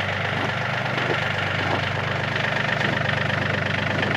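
Yanmar compact tractor's diesel engine running steadily.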